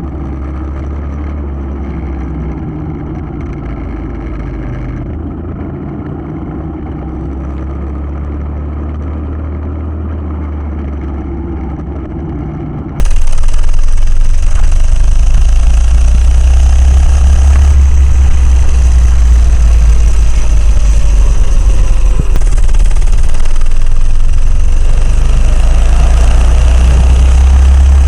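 Engine of a 100cc Coleman CC100X minibike running, with a steady low drone. About thirteen seconds in, the sound cuts abruptly to a louder, fuller recording of the engine running.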